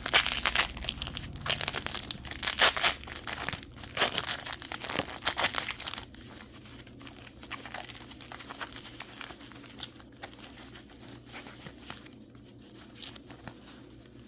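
Crinkling and tearing of packing wrap as a mineral specimen is unwrapped. It is loud and busy for the first six seconds or so, then drops to faint, scattered crackles.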